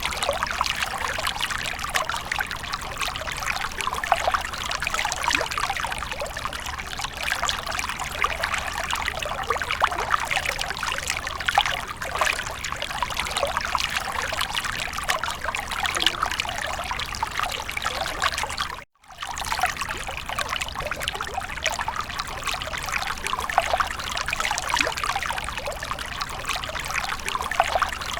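Water fountain splashing and trickling steadily. The sound cuts out for a split second about nineteen seconds in, then resumes unchanged.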